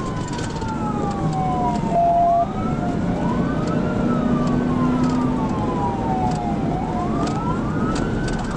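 Police cruiser siren on wail during a high-speed pursuit, sweeping up quickly and falling slowly about every three seconds, over steady road and engine noise. A short steady beep sounds about two seconds in.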